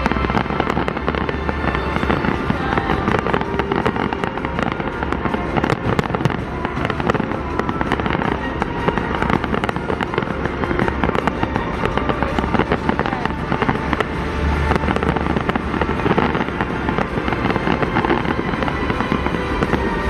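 Fireworks display going off continuously: many rapid pops and crackles from bursting shells, over music.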